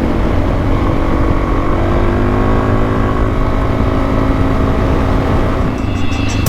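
Suzuki DR-Z400S single-cylinder four-stroke engine running at a fairly steady pitch while riding, over a heavy low wind rumble on the helmet microphone. Music comes in near the end.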